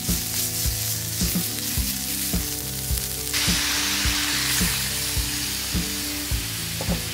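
Crushed spice paste, garlic and chili sizzling in a hot metal wok while a spatula stirs. About three seconds in the sizzling turns into a louder, denser hiss as coconut milk is poured in over the freshwater snails. Background music with a steady beat plays underneath.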